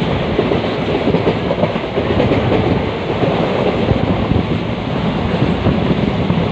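A passenger train running on the rails: a steady rumble and rattle, with many small knocks from the wheels and carriage.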